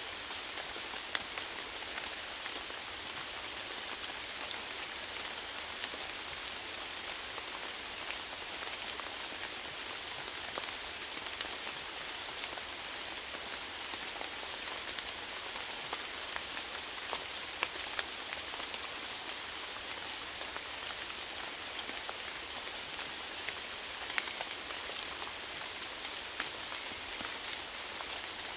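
Steady rainfall on a surface: an even hiss with many individual drops ticking through it.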